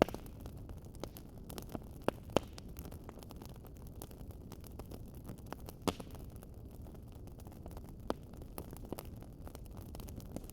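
Wood fire crackling: sharp, irregular pops and snaps, a few a second at most, over a steady low rumble of the flames, with the loudest pops at the start, about two seconds in and about six seconds in.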